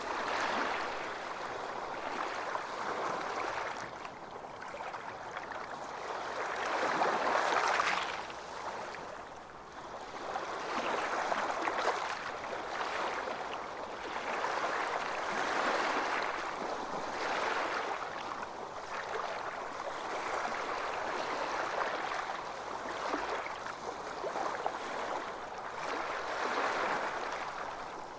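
Small ocean waves washing onto a beach, swelling and ebbing every few seconds, with the loudest wash about seven seconds in.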